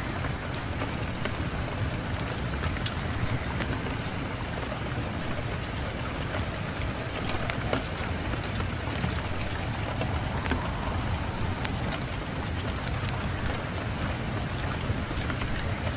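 Fireplace fire crackling, with frequent sharp pops and snaps over a steady low rush of wind.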